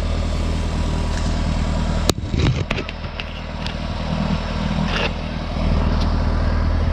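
Tractor engine running steadily while pulling a hay rake, with one sharp pop about two seconds in: the popping noise traced to something wrong in a hub on the rake.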